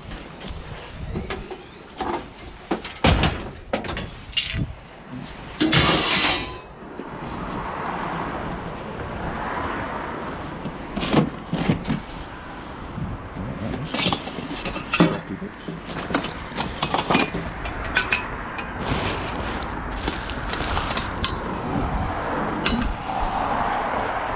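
Scattered knocks and clatters of scrap metal being handled and loaded into a van, over a steady background of traffic noise that rises from about seven seconds in.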